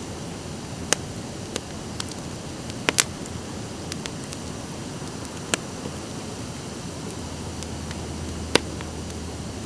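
Driftwood campfire crackling: sharp single pops at irregular intervals over a steady hiss, with the two loudest pops about three seconds in and near the end.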